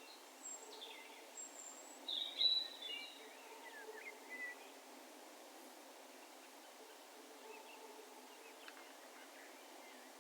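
Wild birds calling: a quick run of high chirps and short falling notes in the first few seconds, loudest about two and a half seconds in, then a few faint calls later. A steady low outdoor hush lies beneath.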